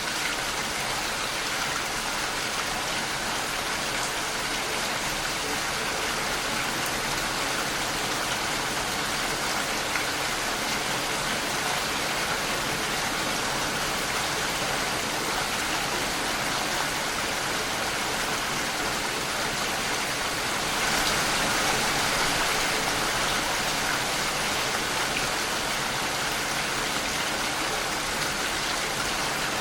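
Steady rainfall, a dense even patter that swells a little heavier for a few seconds about two-thirds of the way through.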